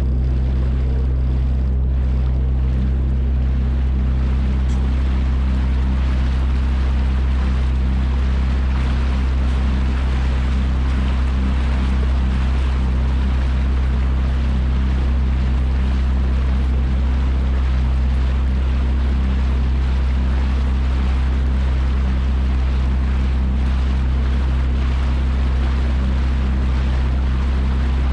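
Yamaha jet ski engine running steadily at an even speed, with the rush of water and wind over it.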